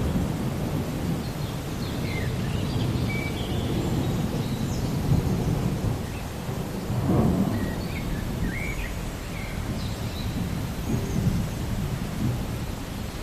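Continuous low rumble of rolling thunder over steady rain, swelling briefly about seven seconds in, with a few faint high chirps.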